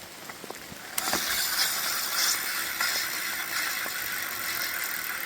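Bicycle rear wheel turning, its freewheel hub clicking steadily, starting with a sharp click about a second in.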